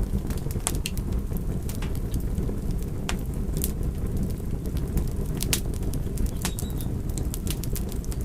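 Fire crackling: irregular sharp pops and snaps, a few a second at most, over a steady low rumble.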